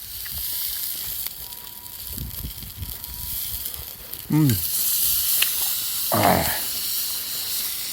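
Food sizzling over a campfire: a steady high-pitched hiss that grows louder about four seconds in. Two short murmured voice sounds come a couple of seconds apart in the second half.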